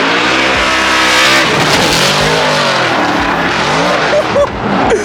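Formula Drift cars sliding past close by, engines revving high with the pitch rising and falling, and tyres screeching over a loud rushing noise.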